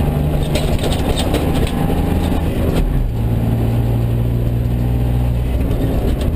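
Mitsubishi Colt rally car's engine running hard, heard from inside the cabin. Its note drops about three seconds in and then holds steady, with sharp clicks and rattles during the first couple of seconds.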